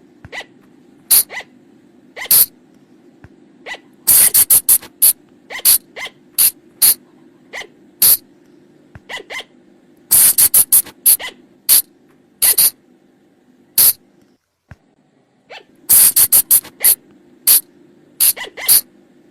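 Sunda colugo (flying lemur) calls: short, sharp squeaks, some single and some in quick runs, with three fast clusters about six seconds apart. A faint low steady hum lies underneath.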